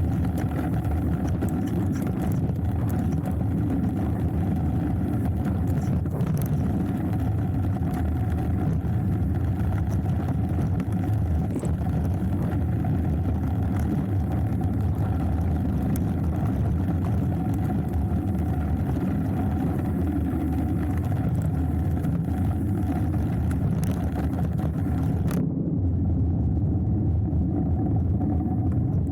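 Steady low rumble of wind over an action camera's microphone and tyres rolling on the trail during a hardtail mountain bike descent, with scattered brief clicks and rattles from the bike. The higher hiss drops away abruptly about 25 seconds in.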